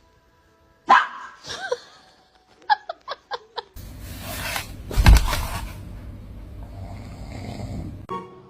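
A dog barking: one loud bark about a second in, then a quick run of four or five short, high yips. After that comes a stretch of rumbling noise with one loud thump in the middle.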